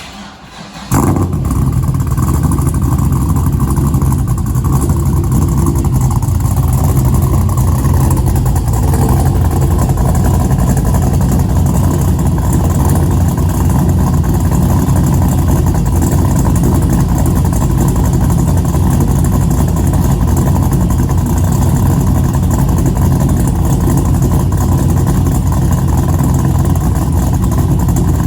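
LS1 V8 of a 1998–2002 Chevrolet Camaro, fitted with a 615/596 cam and a Speed Engineering true dual exhaust, running with a steady loud exhaust note. The sound comes in suddenly about a second in.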